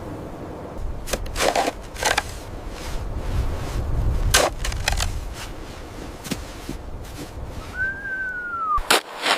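Low wind rumble with a scatter of sharp cracks and snaps, and near the end one short whistling tone that rises and then falls.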